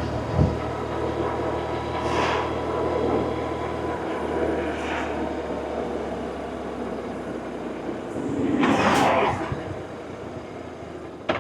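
BMW R1100RT boxer-twin engine running under way, heard with wind rush while riding. The low engine note drops about four seconds in. A loud rushing whoosh comes about nine seconds in.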